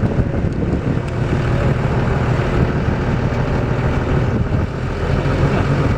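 A motor running steadily with a low, even drone, mixed with wind noise.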